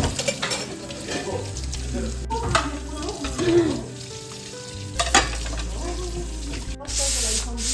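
Food frying and sizzling in a pan while it is stirred, with a few sharp clicks and a louder hiss near the end.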